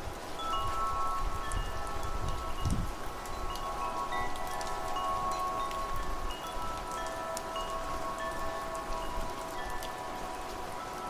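Wind chimes ringing, several long tones overlapping, over steady rain with fine drop ticks; low gusts of wind in the first few seconds.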